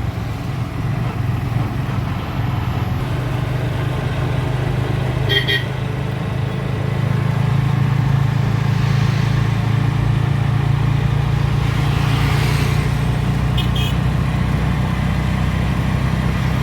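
Steady low drone of a vehicle driving along the road, with two short horn toots, one about five seconds in and another near the end, and traffic passing around them.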